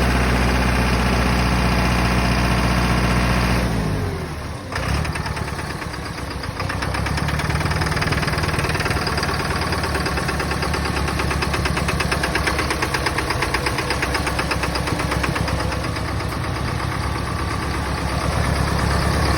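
An engine idling steadily, then winding down about four seconds in. It starts again a second later and runs on with a fast, even knock.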